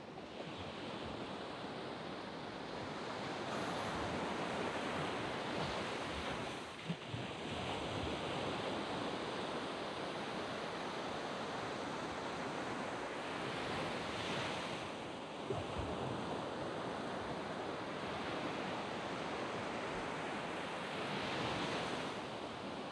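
Surf on a sand beach: a continuous wash of waves, swelling into a brighter hiss as a wave breaks and runs up the sand every several seconds. A couple of brief low thumps come about seven and fifteen seconds in.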